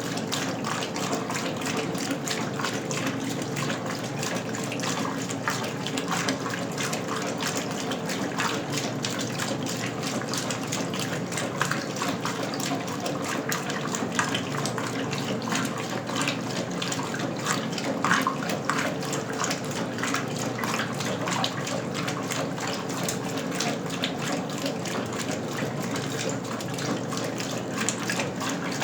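1977 Westinghouse Lavínia washing machine running with water, a steady rushing and splashing of water in its tub over a low steady hum.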